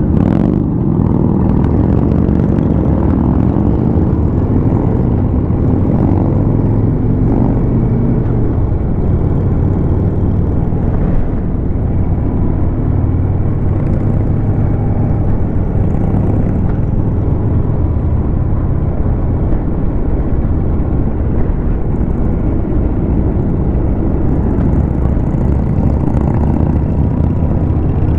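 Harley-Davidson Road King's V-twin engine running steadily while the motorcycle is ridden along the road, heard from on the bike.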